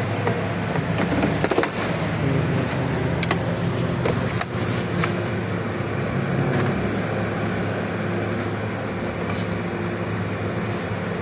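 A 2008 Hyundai Elantra's engine running steadily at idle speed, with a few sharp clicks in the first five seconds.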